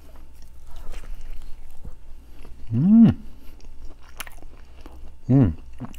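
A person chewing and biting pizza, with small wet mouth clicks, and two short hummed vocal sounds, the louder about halfway through and another near the end.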